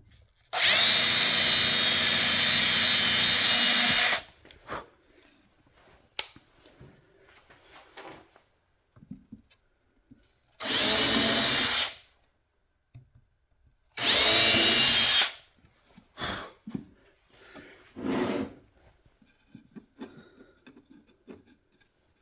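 Power drill with a bit boring holes in wood, three runs: one long one of about three and a half seconds near the start, then two short ones of about a second and a half each, with light handling knocks between.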